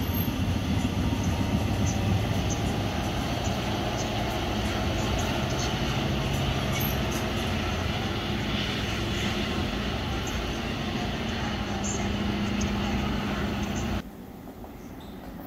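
Passenger train running along the platform track: a steady rumble of wheels on rail with a low, even hum. About fourteen seconds in, it cuts off suddenly to the quieter, steady hum of an underground station platform.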